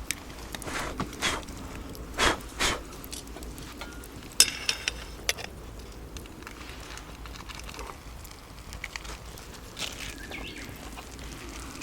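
Scattered knocks and rustles of cooking gear being handled, with one sharp metallic clink a little over four seconds in.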